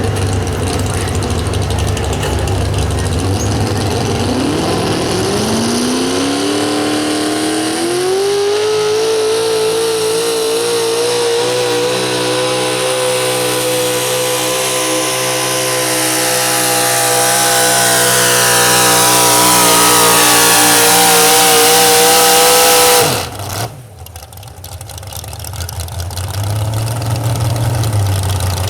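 Super stock 4x4 pulling truck's engine climbing in revs over several seconds, then held at high revs at full throttle and getting louder, before cutting off suddenly about 23 seconds in. A lower engine rumble comes back near the end.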